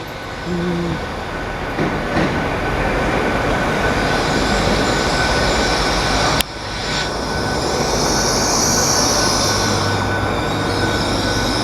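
A GWR Class 165 diesel multiple unit moving through the station, its wheels squealing high on the rails over a steady rumble, with one sharp click about six seconds in.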